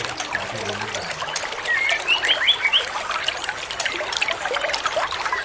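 Trickling water with a songbird calling over it: a quick run of short rising chirps about two seconds in.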